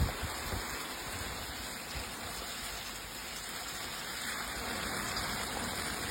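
Steady hiss of storm wind, even throughout with no distinct events.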